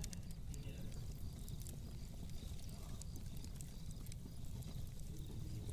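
Fireplace crackling: scattered small pops and snaps over a steady low rumble.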